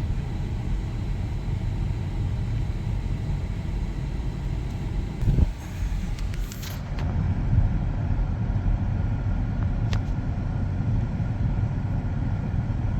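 Steady road and engine rumble from inside a moving car, with one brief thump about five seconds in.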